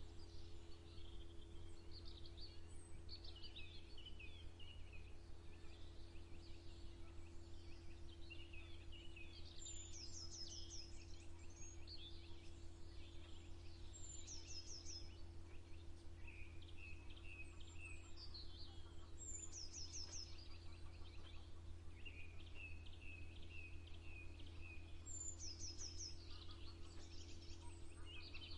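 Several songbirds singing, with short repeated trills and high quick note runs that recur every few seconds. A steady low hum runs underneath.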